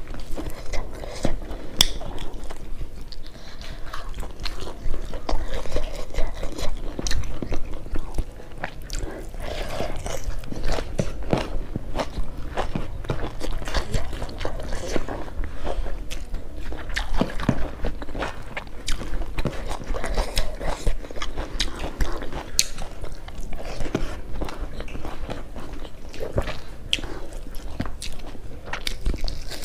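Close-miked chewing and mouth sounds of a person eating rice, boiled mustard greens and pork by hand: many short wet smacks and clicks.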